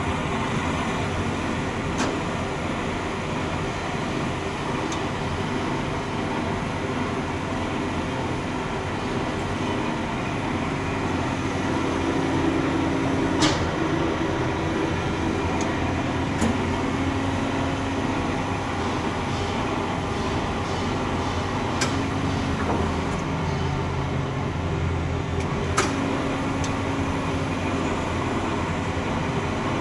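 Amada H600 bandsaw running steadily, with a few sharp clicks along the way.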